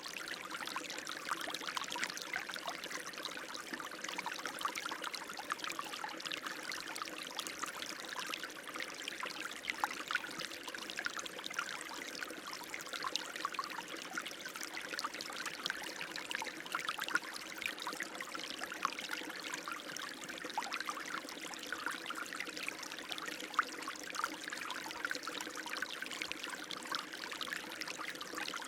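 Running water flowing steadily, an even rushing hiss full of small trickling splashes.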